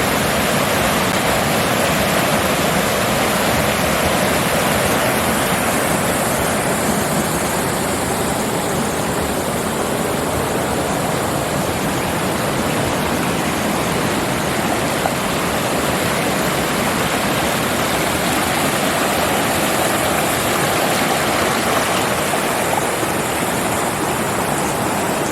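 Creek waterfall: a steady, loud rush of water pouring over rocks.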